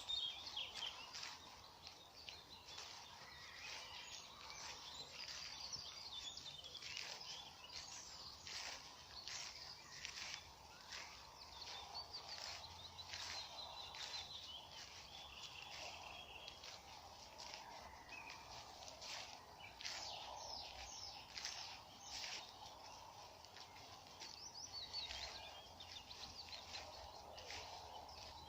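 Several kinds of small songbirds singing together: overlapping chirps, trills and quick sharp notes, faint, over a steady low background noise.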